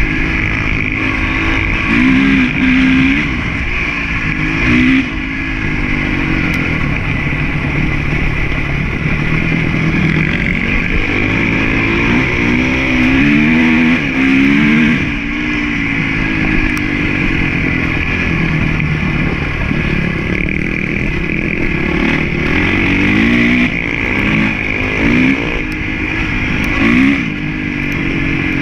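Honda CRF450 single-cylinder four-stroke motocross bike engine being ridden hard. The revs rise and fall repeatedly as the throttle is opened and closed, with several sharp bursts of revving.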